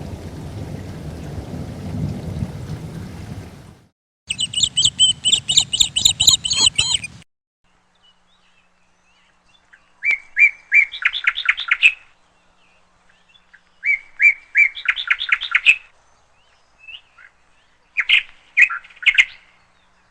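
Steady rain noise that cuts off abruptly about four seconds in. Then a songbird chirps rapidly over background noise for about three seconds, followed by three short song phrases with silence between them, each a few notes running into a fast trill.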